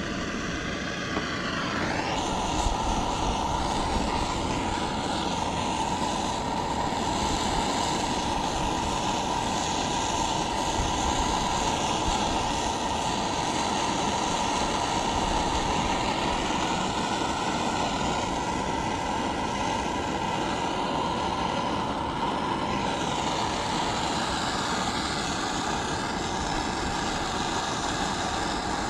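Handheld gas torch flame burning steadily while heating a copper joint on a shower valve for soldering, a continuous hissing rush that grows slightly louder and changes tone about two seconds in.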